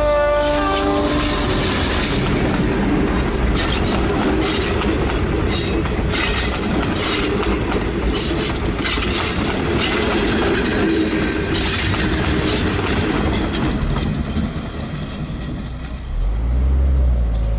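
A train's horn sounds briefly at the start, then the train runs on with a steady rumble of wheels on rail and short, high wheel squeals coming and going.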